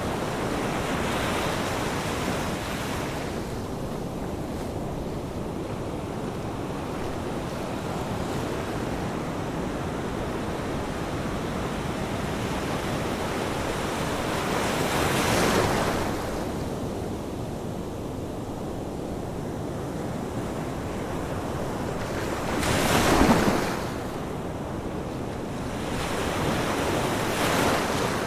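Ocean surf: a steady wash of waves with a few louder breakers swelling and fading, the loudest about two-thirds of the way through.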